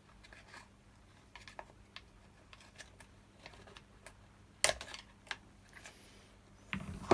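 Scattered light clicks and taps of hard plastic parts and small tools being handled on a Stihl BR600 backpack blower's primer bulb and fuel pipes, with one sharper click about halfway through.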